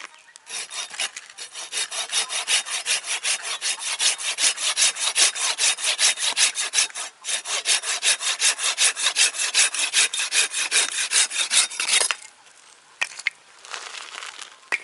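Hand saw cutting wood in quick, even strokes, about five a second, with a brief pause about seven seconds in. The sawing stops about twelve seconds in, and a short burst of strokes follows near the end.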